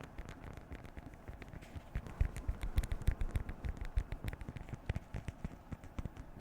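Beeswax food wrap being crinkled and handled, a quick run of small crackles and soft taps that gets busier and louder about two seconds in.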